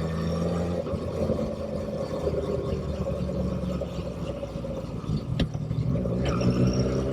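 Motorcycle engine under way. Its note drops off about a second in, then rises again near the end as it accelerates, with a single sharp click shortly before.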